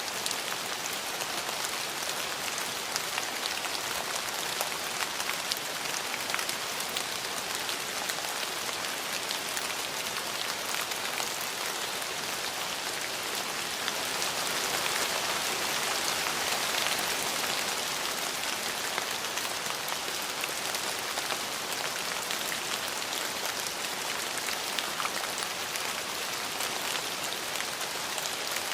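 Steady rain falling, a dense hiss of drops with many small individual drop ticks, swelling slightly for a few seconds around the middle.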